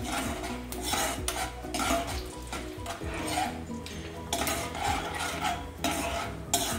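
Cashews, curry leaves and mustard seeds sizzling in hot oil and ghee in a kadai while a metal slotted spoon scrapes and stirs them round the pan in repeated strokes; the cashews are being lightly roasted until pinkish brown.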